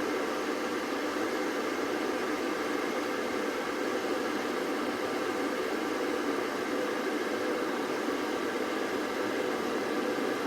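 Electric kettle heating water: a steady rushing hiss, not yet at the boil.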